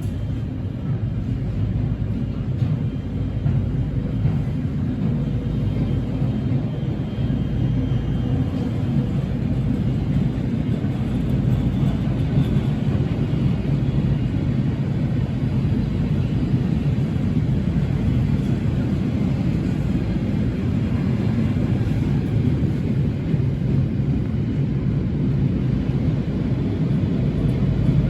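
Train running with a steady low rumble that stays even, without a clear approach or fade.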